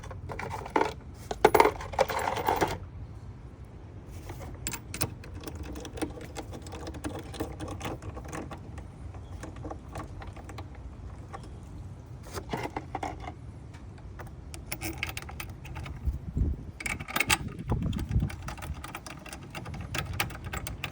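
Scattered metallic clinks and clicks of bolts and hand tools being handled while fastening a car's plastic air-vent panel, with a few dull knocks about two thirds of the way through.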